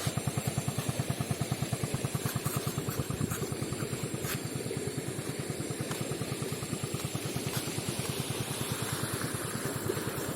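Hero Glamour motorcycle's single-cylinder engine idling steadily, with an even pulse of about ten beats a second.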